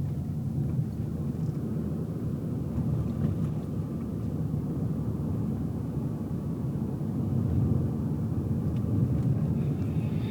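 Steady low road and engine rumble heard from inside a car's cabin while it is being driven.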